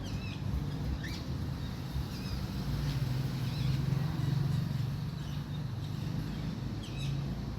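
Birds giving short, scattered chirps, about five in all, over a steady low background rumble.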